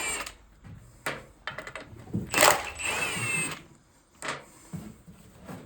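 Tools working tight bolts loose on an NV4500 transmission case: sharp metal clicks, and a louder burst of about a second, about two and a half seconds in, with a short squeal that rises and falls.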